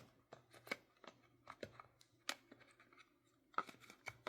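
Faint, scattered light clicks and knocks of the plastic parts of a hair dryer brush set being handled and fitted together; the dryer is not running.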